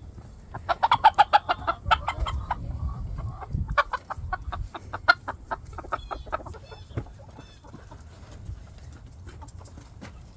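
Chickens clucking in rapid runs of short notes: a loud run about a second in, then a second, longer run from about four to seven seconds.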